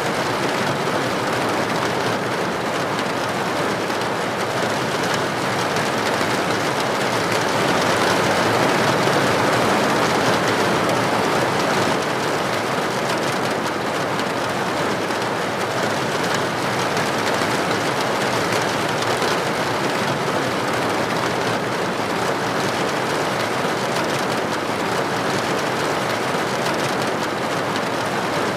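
Steady rain falling on a window or roof, a constant, even hiss with a slight swell about eight seconds in.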